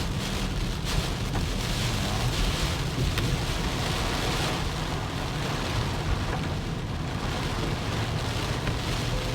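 Heavy rain beating down steadily over the low, even running noise of a car on the road.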